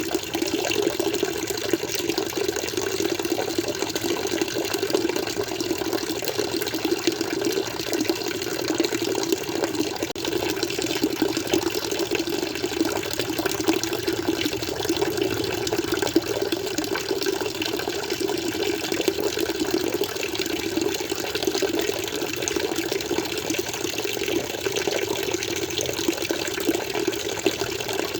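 Water flowing steadily, an even, unbroken rushing sound.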